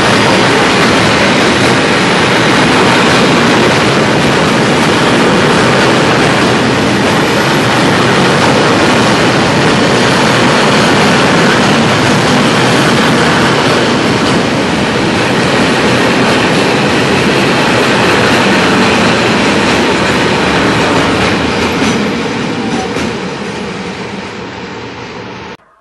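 Container freight train passing at speed: a loud, steady rumble of wagon wheels on the rails, fading over the last few seconds as the end of the train goes by.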